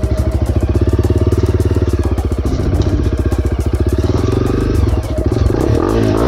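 Enduro dirt bike engine running hard at high revs while the bike is pushed and ridden up a steep gully, its note shifting about halfway through and dipping briefly about five seconds in.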